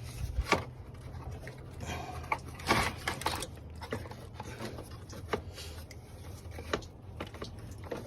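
Scattered clicks, knocks and a brief rustle of hand work on car parts under the hood, over a steady low hum.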